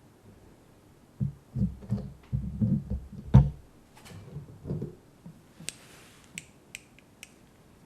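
Close-miked handling sounds: a run of low thuds and rumbles with one sharp knock in the middle, then a brief hiss and a few crisp clicks near the end.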